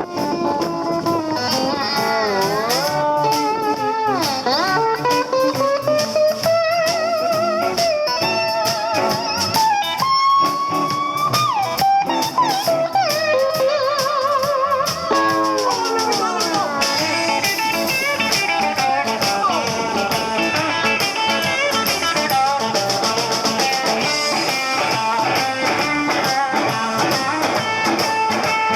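Blues band playing an instrumental break: a lead guitar solo with bending notes and wavering vibrato over the band's steady backing.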